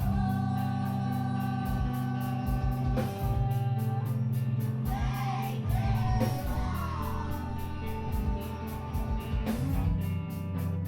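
Emo band playing live: electric guitar chords ring out over drums with steady cymbal strokes, and a sung vocal line comes in about halfway through.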